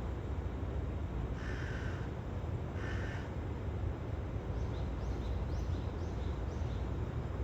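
Two short, harsh bird calls about a second and a half apart, then a quick run of about five short, high, falling chirps from a small bird, over a steady low rumble of outdoor noise.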